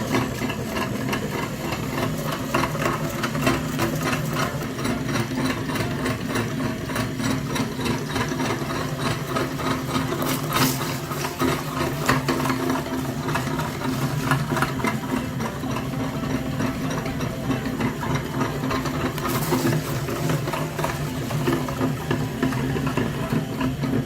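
Mini tractor's motor running steadily with a constant low hum and a fast rattling beat.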